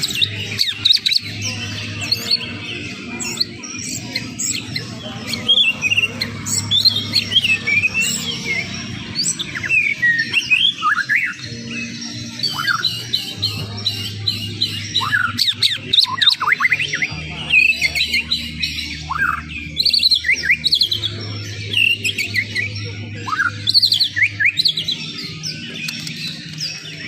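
Greater green leafbird (cucak ijo) singing a fast, varied contest-style song of chirps, squawky notes and rising and falling whistles, almost without pause, over low, steady backing music.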